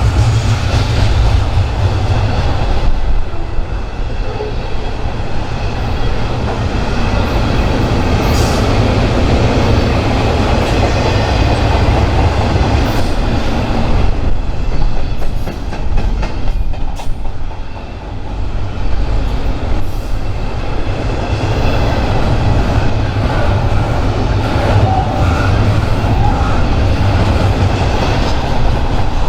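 A train rolling past close by: a steady heavy rumble of wheels on rail with continuous clatter over the joints.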